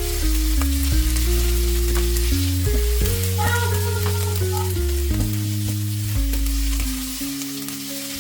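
Onion and garlic paste sizzling as they fry in oil in a pan, being stirred, under background music with a steady bass line that drops away near the end.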